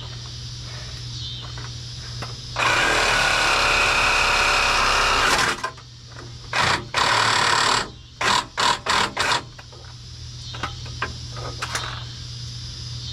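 Power saw cutting through a steel exhaust pipe: one long cut of about three seconds, then several short bursts of cutting as it finishes.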